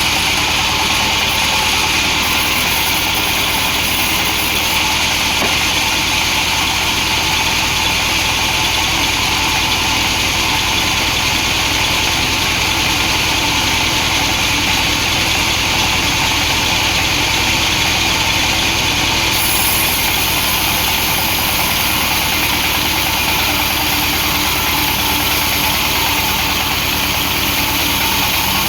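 Chainsaw running steadily as it rips a log of hard wood lengthwise.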